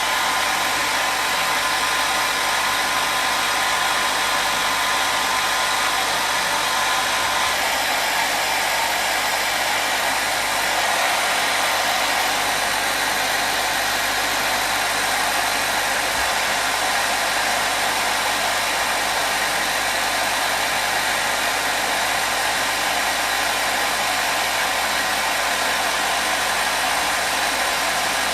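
Hair dryer running steadily: a continuous rush of blown air with a motor whine. The whine's tone changes about seven seconds in.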